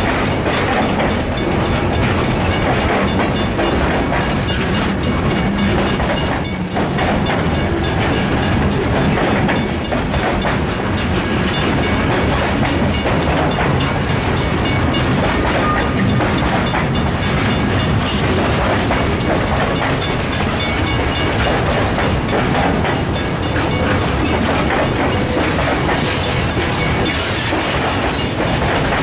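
Freight train of boxcars and tank cars rolling past at close range, its steel wheels clattering steadily over the rails. A thin, high, wavering squeal comes through a few seconds in.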